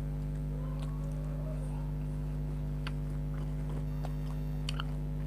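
A steady low hum, with faint scattered clicks and smacks of a person chewing and eating chicken close to the microphone.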